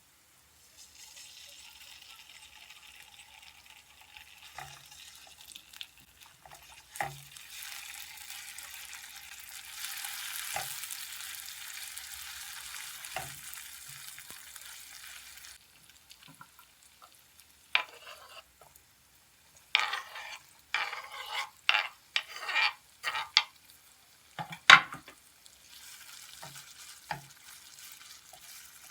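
Food sizzling in a frying pan. Around the middle, a utensil stirs and scrapes in the pan in a run of sharp strokes, and then the sizzle carries on.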